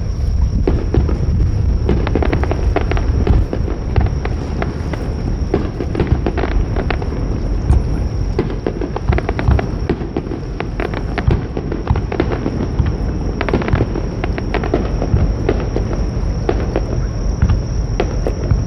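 Aerial fireworks going off in quick succession: dense crackling from many sharp reports over a continuous low rumble of bursts.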